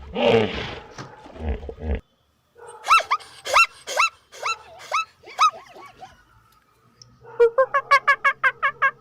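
A run of animal calls from several clips in turn. It opens with rough growling calls, then after a short break comes a series of sharp, hooked calls about half a second apart. Near the end a fast string of pitched calls begins, about four or five a second.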